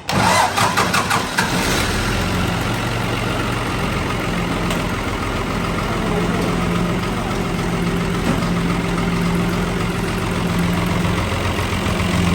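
Tractor diesel engine starting: a short burst of uneven firing as it catches, then running steadily at idle. It is being tried after its diesel injection pump was repaired.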